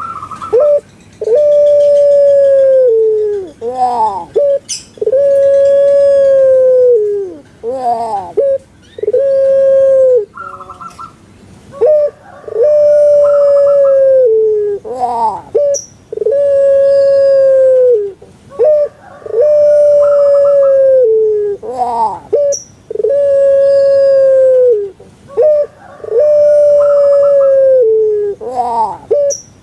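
Puter pelung, a Javanese long-cooing breed of the Barbary dove (Streptopelia risoria), cooing its song over and over. Each phrase is a short note and a quick rising-and-falling gurgle, then a long held coo that drops in pitch at its end, about every three to four seconds.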